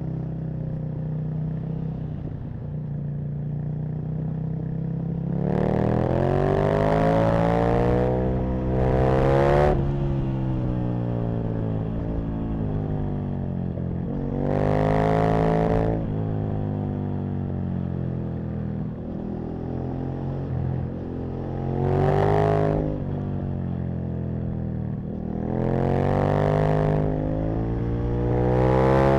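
Aprilia RSV Mille's 998 cc V-twin engine running on a ride, accelerating hard about five times with its pitch climbing, then dropping back as the throttle closes between pulls.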